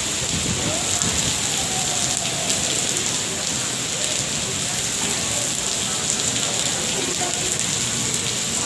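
Steady rain falling, with scattered ticks of drops hitting surfaces.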